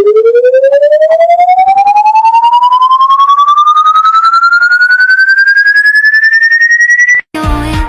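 A loud siren-like tone climbing steadily in pitch from a low drone to a high whine, pulsing rapidly, about ten times a second, then cutting off suddenly about seven seconds in, with music after it.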